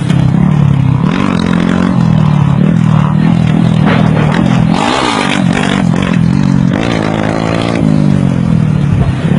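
Motorcycle engine running and revving, its pitch rising and falling several times, with a longer rise in revs near the end.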